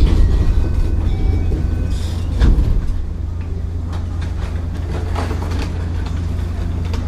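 Interior running sound of a JR 205 series 0-subseries electric train with field-added excitation control, rolling along the track: a steady low rumble with scattered wheel-on-rail knocks, the loudest about two and a half seconds in.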